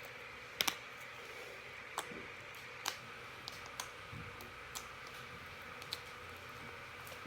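Small plastic items being handled, likely a slime tub and cup: about seven scattered clicks and taps, the sharpest a quick double click under a second in, over a faint steady hum.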